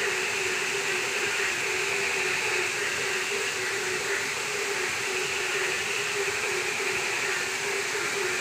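Heavy rain making a steady, unbroken hiss, with a faint wavering hum underneath.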